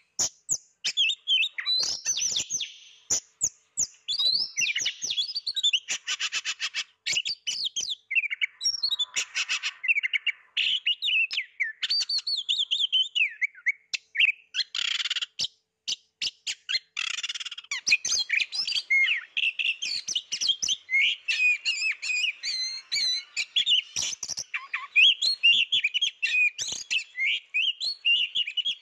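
Oriental magpie-robin (kacer) singing continuously and energetically: a long, varied song of clear whistled phrases and warbles broken by several harsh, rattling buzzes.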